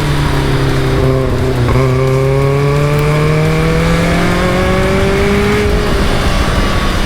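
Caterham Super Seven sports car engine pulling under load, its pitch climbing slowly as it accelerates. Brief dips in pitch about a second and a half in and again near the end mark gear changes.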